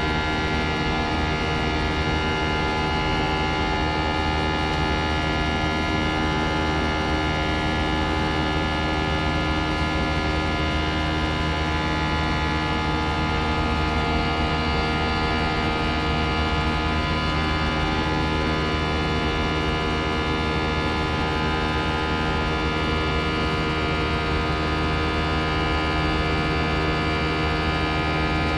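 Airbus A319 cabin noise in flight from the front row: a steady rush of air with a dense hum of many steady tones, unchanging throughout.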